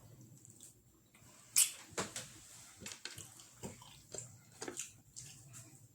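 Close-miked wet chewing and mouth smacks of someone eating, a run of irregular short moist clicks and squelches, loudest about one and a half seconds in.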